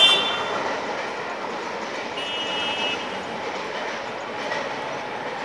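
Wheels and coaches of a passing passenger train rumbling on the rails as it moves away, settling to a steady fading rumble after the loud pass-by. About two seconds in there is a brief high-pitched whine.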